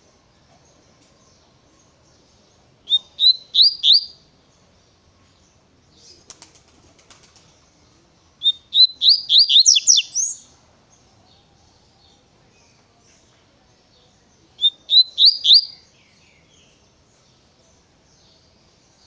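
Double-collared seedeater (coleiro) singing the 'Natureza Tui Tui' song type: three short, fast phrases of rapid falling whistled notes, each about a second or two long, a few seconds apart.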